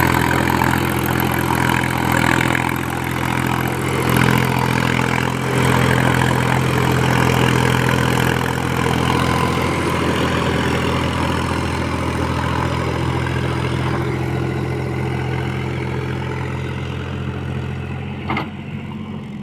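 Mahindra tractor's diesel engine running steadily under load, growing gradually quieter over the last few seconds, with one sharp click shortly before the end.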